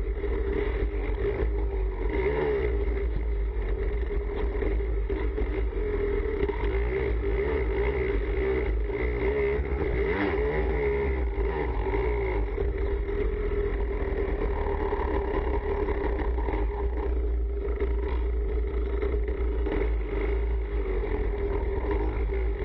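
Enduro motorcycle engines running, a steady engine drone with revs rising and falling underneath it.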